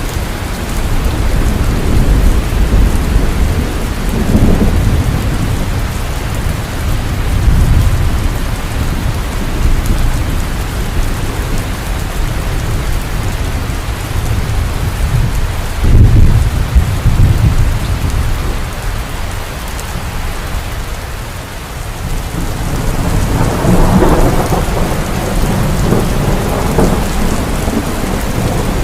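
Heavy rain falling steadily in a thunderstorm, with rolls of thunder rumbling low several times, the strongest at about the midpoint and another swelling up near the end.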